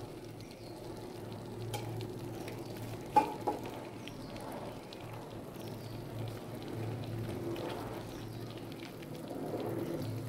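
Paneer masala gravy sizzling softly in a non-stick kadai on the stove, with a couple of sharp clicks, the loudest about three seconds in.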